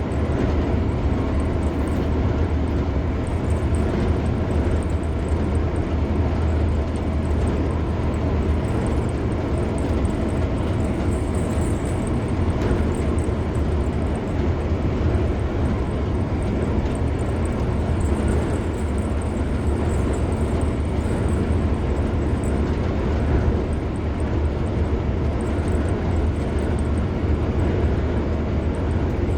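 Car driving steadily at highway speed: a continuous low tyre and engine rumble with a lighter hiss of road and wind noise, no sudden events.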